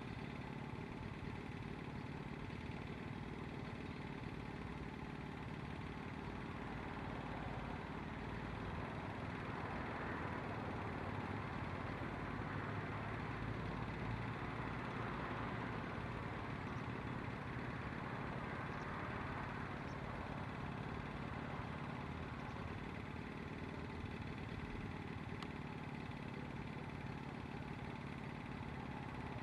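Steady running of a vehicle engine, swelling a little midway and easing off again.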